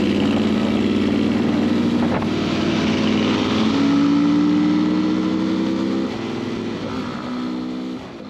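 A vehicle engine running steadily, its pitch stepping up a little about four seconds in, dropping back about six seconds in, and falling away more quietly near the end.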